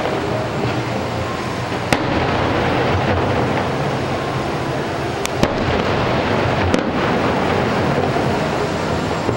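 Fireworks going off at a distance: a steady rumble of bursts, with about four sharp cracks standing out over it.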